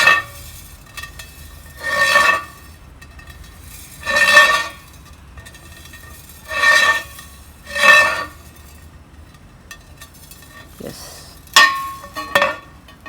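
Metal being scraped and clinked in short strokes, about one every two seconds, each leaving a brief ringing tone; two quicker strokes come near the end.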